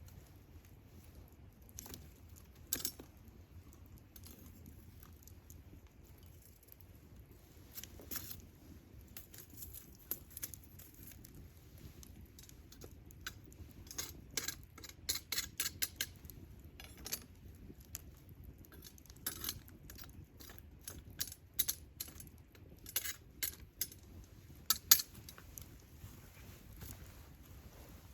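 Wood campfire crackling, with scattered sharp pops and snaps over a low steady rumble, the pops coming thicker in the second half.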